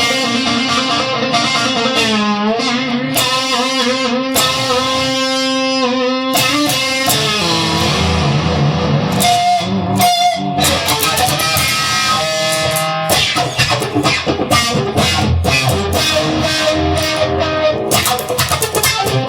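Rock instrumental passage on electric guitars, Fender Stratocasters and a Telecaster, with no vocals. Held notes with wavering bends come in the first few seconds, then quick picked notes fill the second half.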